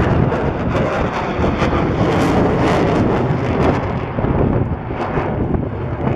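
Loud, steady jet noise from a Boeing F/A-18F Super Hornet's twin General Electric F414 turbofans, with wind buffeting the microphone.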